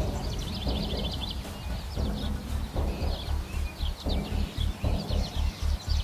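A bird singing short, fast trills of high chirps, repeated about once a second. Beneath it runs a low, regular pulsing that becomes distinct in the second half.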